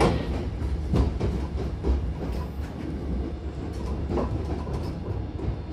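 Hankyu Kobe Line train heard from inside the car as it pulls into the terminus: a steady low running rumble with a few separate wheel knocks over the rail joints, easing slightly as the train slows.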